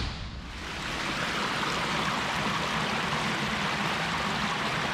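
Water rushing down a fish ladder, a steady rush that grows louder over the first second and then holds.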